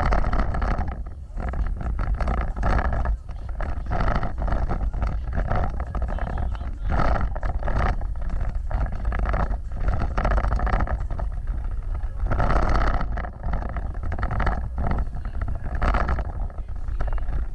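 Off-road vehicle driving over rough ground: a steady low engine rumble with many irregular knocks and rattles.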